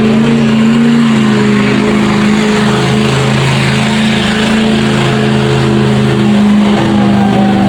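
A pulling truck's engine running hard and steady under full load as it drags the weight sled down the track, its pitch holding nearly level with small dips.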